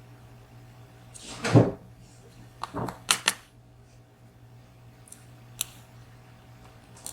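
Handling noises from the lock and small metal tools during disassembly: one louder knock about a second and a half in, a quick run of sharp clicks around three seconds, then single clicks later on.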